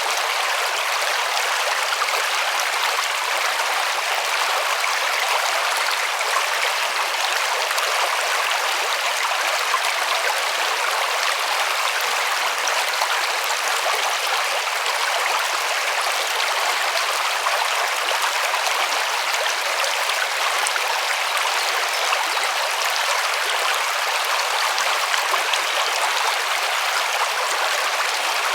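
A river or stream flowing over rocks: a steady, even rush of water without a break.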